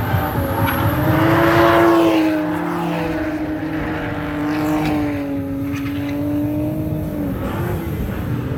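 Drift car engine held at high revs through a drift, its pitch wavering up and down as the throttle is worked, with a tyre hiss that is loudest about two seconds in. The engine note fades out near the end.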